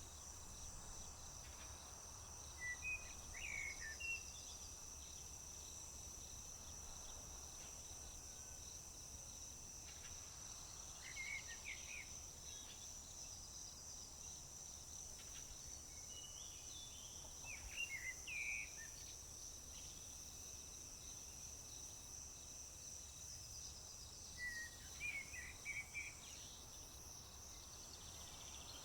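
Crickets singing in a steady, high, unbroken trill, with a songbird giving a short song four times, about every seven seconds.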